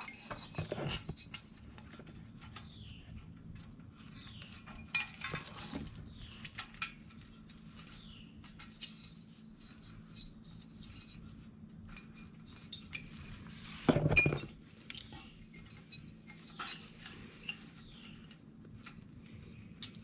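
Scattered metallic clinks and knocks of hand tools and metal parts being handled during mower repair work, with a louder knock about fourteen seconds in.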